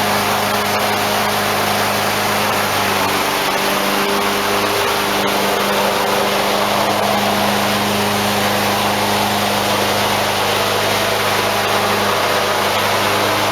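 Briggs & Stratton 190 cc single-cylinder four-stroke engine of a self-propelled lawnmower running steadily at a constant speed on a newly replaced carburetor. It stays running, which shows the fault of starting but not staying running is fixed.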